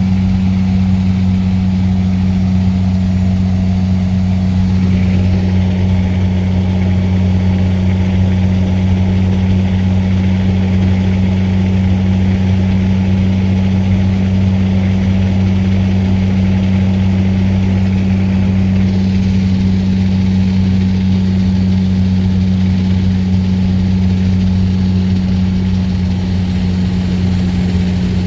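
12-valve Cummins turbo diesel inline-six running steadily at one even engine speed, a loud, constant low drone.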